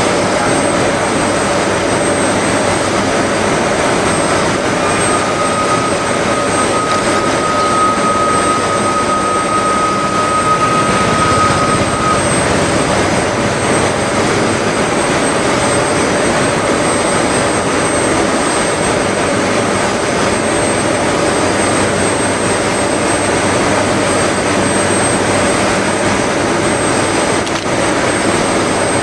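Steam locomotive working, a steady loud rush of steam and exhaust noise with a constant mid-pitched tone in it; a thin, higher steady tone is held from about five to twelve seconds in.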